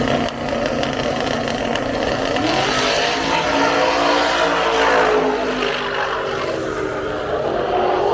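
Drag race car engines at high revs on a drag strip, their pitch climbing and then dropping away.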